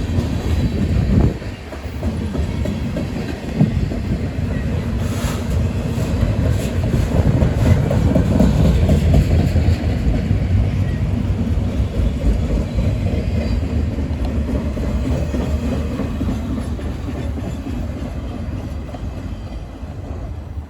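CSX freight train rolling past, its cars' wheels clicking over rail joints with a dense, steady rumble that eases off over the last several seconds as the train draws away.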